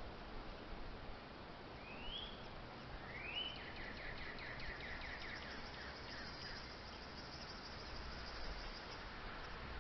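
Wind hiss and low rumble on the microphone, with two short rising chirps about two and three seconds in, followed by a rapidly pulsing high insect trill.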